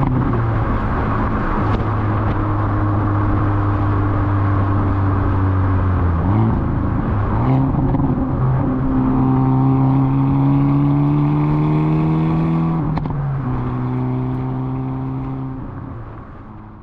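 2022 Hyundai i30 N Fastback's 2.0-litre turbo four-cylinder engine pulling under load, its pitch steady and then climbing slowly. The pitch drops about thirteen seconds in as the six-speed manual changes gear, and the sound fades away at the very end.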